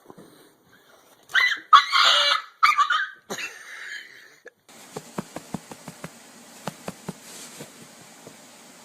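A pet animal gives several short, loud, noisy cries in quick succession. They are followed by a steady hiss with scattered light clicks.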